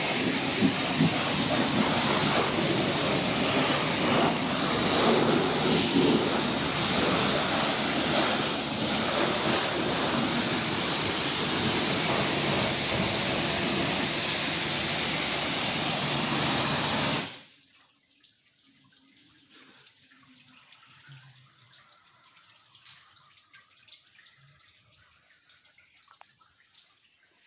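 High-pressure water jet spraying with a steady, loud hiss. It cuts off abruptly about seventeen seconds in, leaving faint drips and small knocks.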